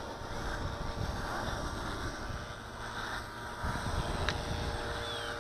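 Walkera V450D01 450-size electric RC helicopter in flight, its brushless motor and rotor giving a steady hum, over a low rumble of wind on the microphone.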